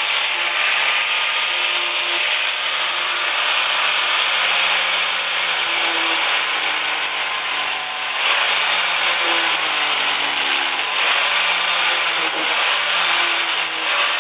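A power tool running steadily on wood, with a slight waver in pitch.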